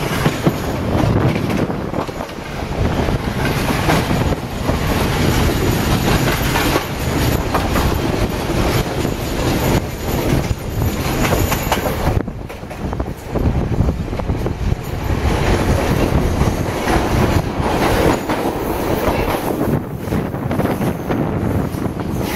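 Passenger train running along the line, heard from on board: a steady rumble with the wheels clattering over the rails.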